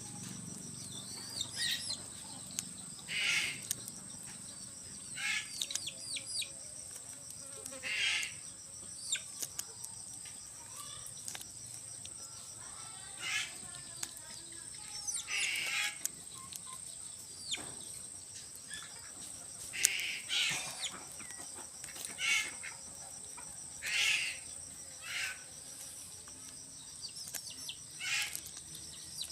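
Steady high-pitched insect drone, with short bird calls every few seconds, some of them falling in pitch.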